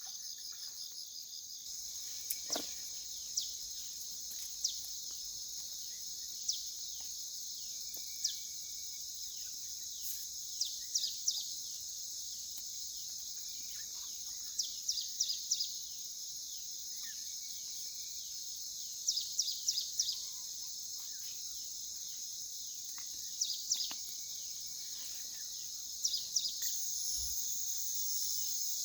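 Steady high shrilling of an insect chorus, with short, high chirps in quick runs of two to four every few seconds.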